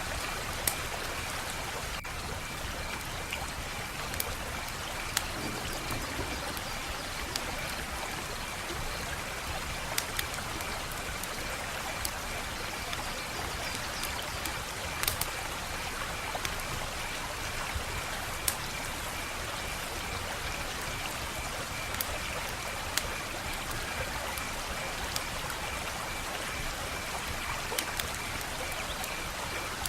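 Wood fire crackling: a steady hiss with sharp pops and snaps every second or two, a few of them louder.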